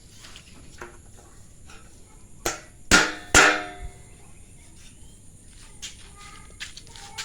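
Steel pieces knocking against each other: three sharp metallic clanks with a short ring, a little over two seconds in, the last two loudest, with faint taps and clicks around them.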